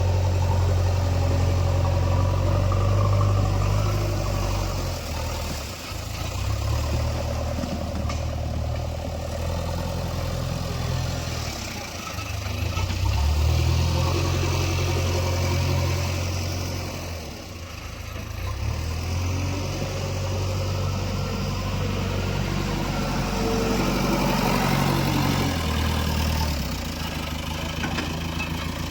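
JCB 3DX Eco Xcellence backhoe loader's diesel engine running under changing load while working, its note dropping and picking up again about every six seconds.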